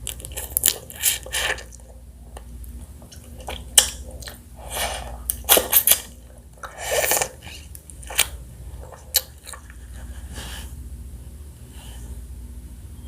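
Close-miked eating of pickled blue crab in sauce: a series of wet slurps and sucking sounds, with sharp cracks and clicks from the crab between them. The sounds come in irregular bursts through the first nine seconds or so, then thin out.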